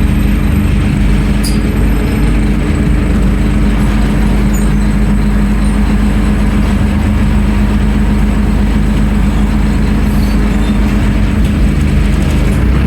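Scania N310UA articulated city bus's diesel engine running at a steady speed, a constant hum with no change in pitch.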